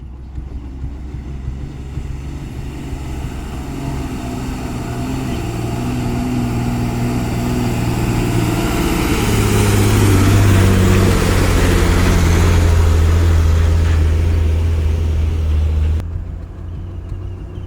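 Loaded heavy lorry's diesel engine pulling hard, growing louder over the first ten seconds with its note shifting in steps. The sound drops suddenly near the end to a quieter engine.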